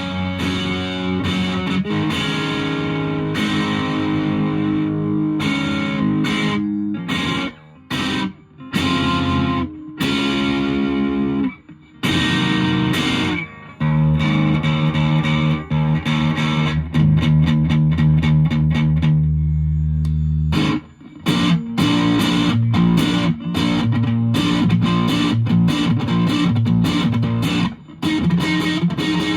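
Electric guitar through a Boss DS-1 distortion pedal and a valve amp, played in distorted chords and riffs with short stops between phrases and a long held chord about halfway through.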